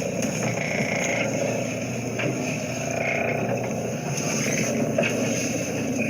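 Small boat's motor running steadily under way.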